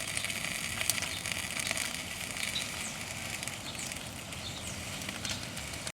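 Steady background noise with a few faint, short high chirps and small clicks, cutting off abruptly at the end.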